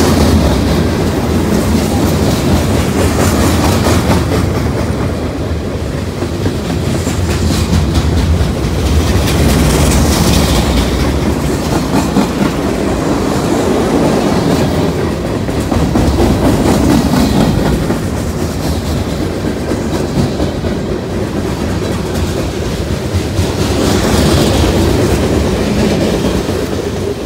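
A train rolling past close by, its steel wheels clattering over the rail joints in a loud, steady rumble that swells and eases every few seconds.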